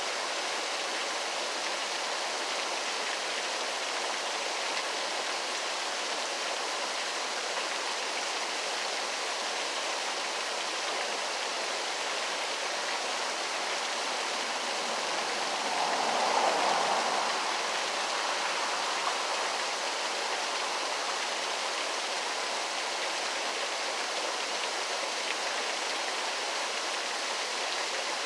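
Waterfall rushing with a steady, even hiss of falling water, which swells briefly a little past halfway before settling back.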